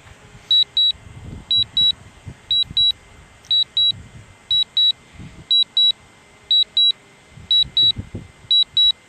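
Drone landing alert: short high-pitched beeps in pairs, about one pair a second, sounding while the drone comes down to land.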